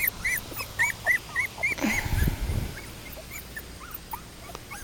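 Three-to-four-week-old Welsh terrier puppies squeaking and whimpering in short, high, rising-and-falling cries, many in quick succession over the first two seconds and then fewer. A soft low thump comes about two seconds in.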